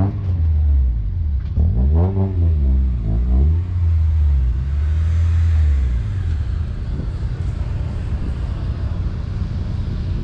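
A car engine rumbling and revving, its pitch rising and falling a few times, then dropping to a steadier rushing sound about six seconds in.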